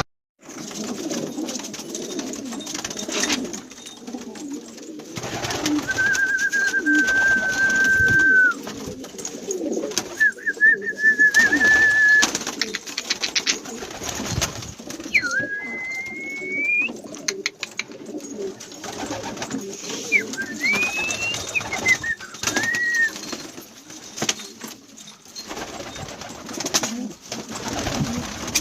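Domestic pigeons cooing in a loft, a steady low murmur of many birds. A few clear whistled notes stand out: two held level for a couple of seconds each, then two that slide upward.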